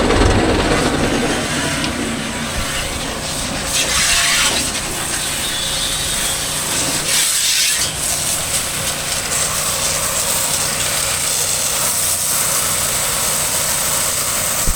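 Steady engine hum with hissing bursts of water spray, the loudest about four and seven seconds in.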